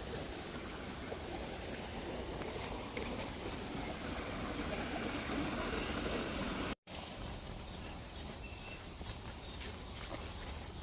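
Outdoor nature ambience: a steady rushing noise with faint scattered ticks. The sound drops out completely for a moment about two-thirds of the way through, then carries on.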